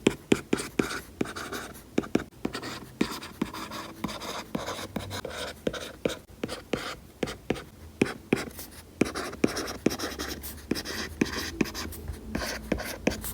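Stylus fitted with a fine needle-style nib writing on a paper-like matte screen protector over an iPad's glass: a dense run of crisp nib taps and short scratchy strokes.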